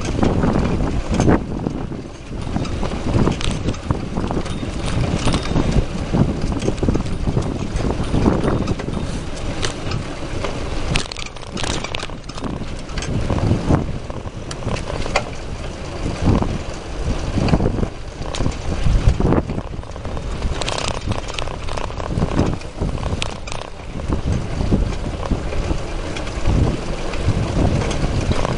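Wind buffeting the microphone of a camera riding along on a moving bicycle, with frequent knocks and rattles from the bumps of the ride.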